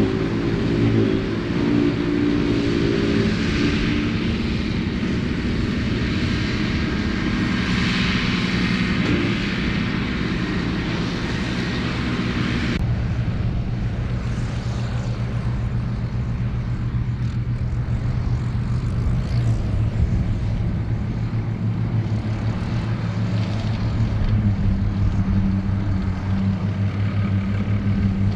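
Ford 8630 tractor's diesel engine running steadily under load while working a forage harvester, with a higher whirring hiss over the engine note. About halfway through the sound changes abruptly: the high whir drops away and a steadier, lower engine drone continues.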